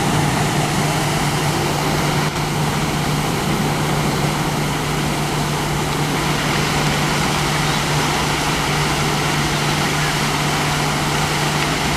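A steady mechanical hum: one constant low tone over an even hiss, unchanging throughout.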